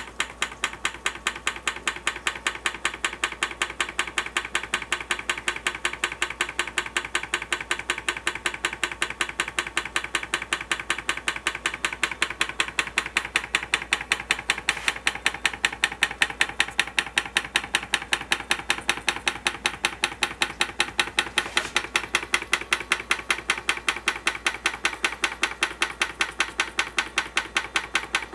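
Homemade water-cooled hot air (Stirling-type) engine running, with a fast, even clicking rhythm from its moving parts that grows a little louder partway through.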